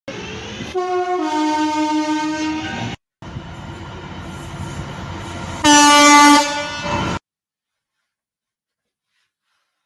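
Train horns in short edited clips over train running noise. First comes a two-tone horn, a higher note dropping to a lower one, held about two seconds. After a cut comes a single loud horn blast about six seconds in. The sound then cuts to dead silence for the last few seconds.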